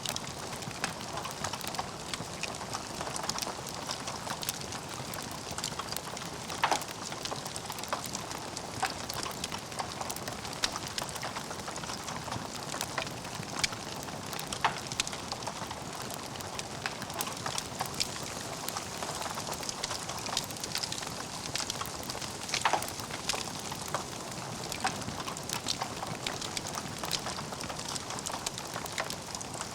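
Wood fire burning in a fireplace: a steady hiss of flames with irregular crackles and pops from the logs, a few sharper pops standing out.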